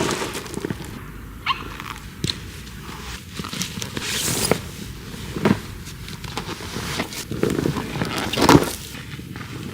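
Irregular rustling and light knocks of someone moving about and handling things, with a few louder swishes, the loudest near the end.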